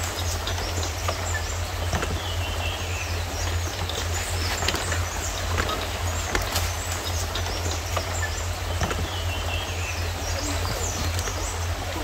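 Forest birds calling over steady background noise: many small high chirps, and one bird's descending call heard twice, about three seconds in and again near nine seconds.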